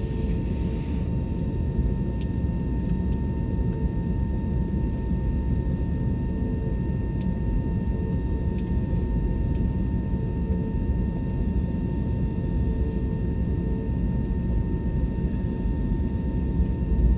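Airbus A320neo airliner's engines and airflow making a steady low rumble with a faint constant hum, as heard from inside the cabin.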